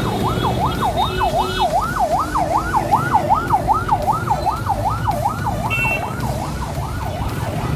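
An emergency vehicle's electronic siren on a fast yelp, its pitch sweeping up and down about three times a second, over the low rumble of the ride.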